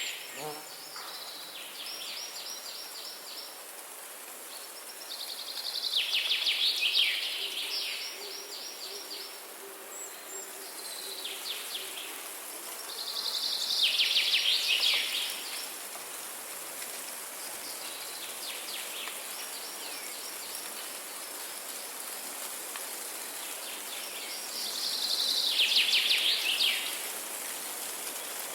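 Songbirds singing rapid trills, each about two seconds long and repeated every several seconds, one bird louder and others fainter in between, over a steady background hiss.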